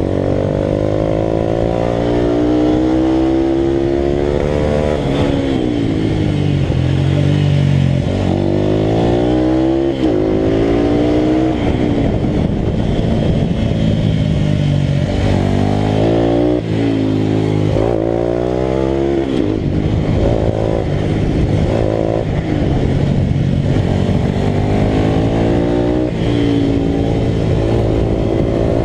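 Italika RT200 motorcycle's single-cylinder engine at racing speed, its pitch climbing through each gear and dropping sharply at each upshift or throttle-off. About halfway through there are several quick drops and climbs in a row, then it runs at a steadier high pitch with small rises and falls.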